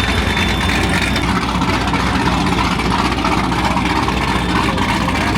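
Two car engines idling together, a steady, loud, low rumble. One is the loud exhaust of a car believed to be a Corvette ZR1, a V8.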